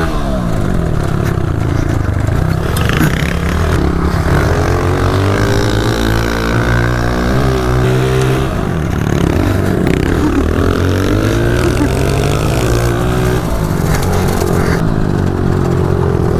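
Honda CRF125 pit bike four-stroke engines revving hard while racing, the pitch repeatedly climbing and dropping as the throttle opens and closes through corners and gear changes.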